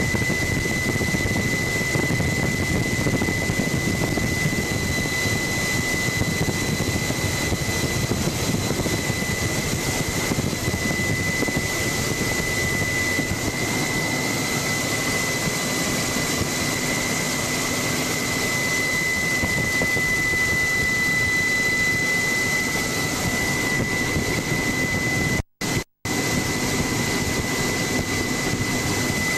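Helicopter engine and rotor noise heard from aboard: a steady rushing drone with a constant high whine. The sound drops out twice, briefly, near the end.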